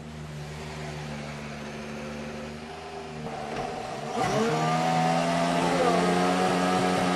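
2014 Ferrari Formula 1 car's 1.6-litre turbocharged V6 running at low revs. About four seconds in it gets much louder as the revs climb, with the pitch sweeping up and later dropping away.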